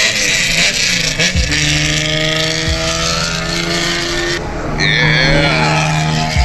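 Car engines running at a steady, near-constant pitch, with a brief falling whine about five seconds in.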